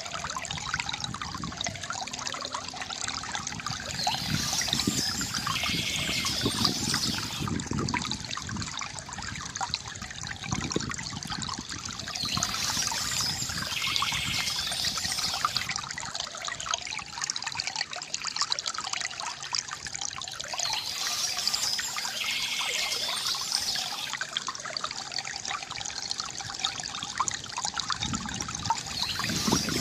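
Water trickling and pouring steadily from a bamboo fountain spout, with occasional louder gushes.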